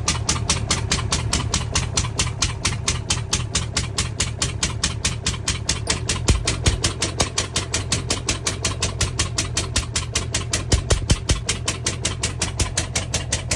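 Twin-cylinder small engine of a truckmount carpet cleaner running with a regular, lumpy beat and a couple of louder knocks partway through. One cylinder is not firing, so the engine runs on a single cylinder at low speed.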